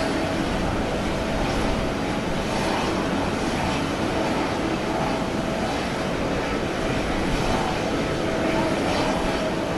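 Steady jet noise from a Boeing 787-8 airliner during pushback on the apron, with a faint hum that fades in and out.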